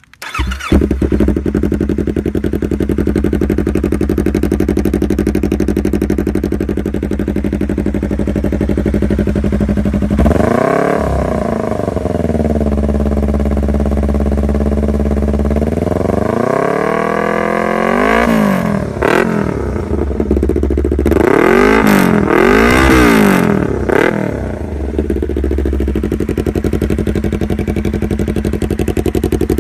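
Yamaha R25's parallel-twin engine through an Enzo R full-system carbon exhaust, starting up and idling, then revved: one rev about ten seconds in, a longer rise and fall a few seconds later, and a cluster of quick throttle blips before settling back to a steady idle.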